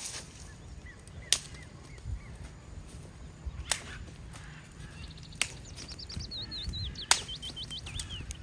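Four sharp knocks or cracks spaced about two seconds apart. From about halfway through, a songbird sings a quick run of repeated sliding notes. Wind rumbles low in the microphone throughout.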